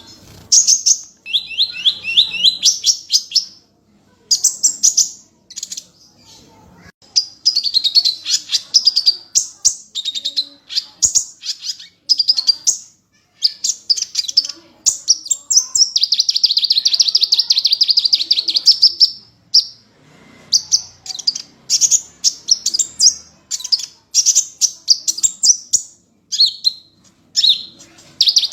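A small bird singing a high, fast twittering song in repeated runs of rapid notes, with short pauses between phrases and one long unbroken trill around the middle.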